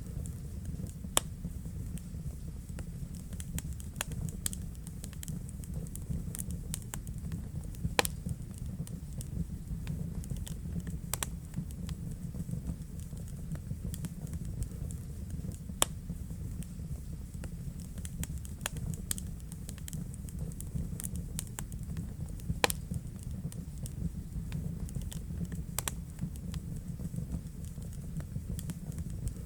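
Wood fire crackling in a fireplace: frequent small irregular crackles and snaps over a steady low rumble of the burning fire, with a few louder pops spread through.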